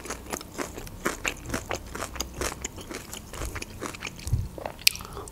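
A person chewing a mouthful of pickled ginger close to the microphone: an irregular run of small, crisp crunches and clicks.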